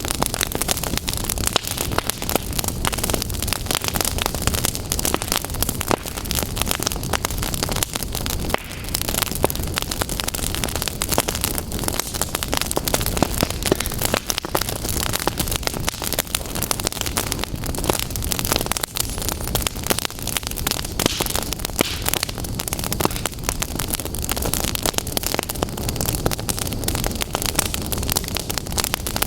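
Fire crackling and throwing sparks, a dense, steady run of irregular crackles and pops over a constant hiss.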